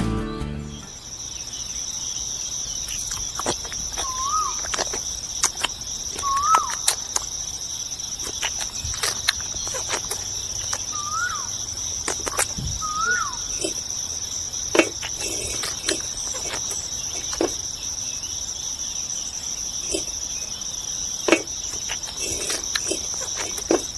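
Insects chirring in a steady high-pitched drone, with four short rising-and-falling whistled notes and scattered sharp clicks and taps.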